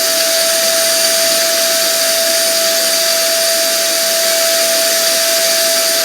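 Electric vacuum cleaner running steadily and loudly: a constant whine over an even rush of air, with no change in speed.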